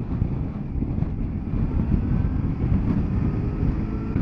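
Motorcycle engine running as the bike rides along, under a steady low rumble of wind on the microphone.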